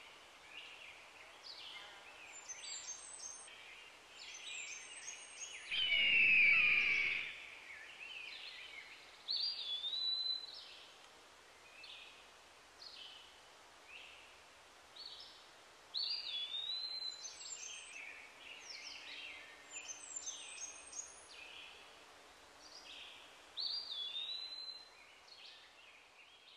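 Birds singing and chirping, with one swooping song phrase repeating about every seven seconds and a louder burst with a falling whistle about six seconds in.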